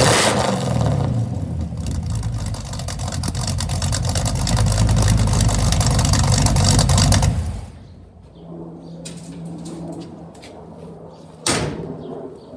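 Supercharged 355 small-block V8 running loud through a 3-inch dual exhaust with Flowmaster FX mufflers and being revved, building up over several seconds. The sound drops away sharply about seven and a half seconds in, followed by faint clicks and a single sharp knock near the end.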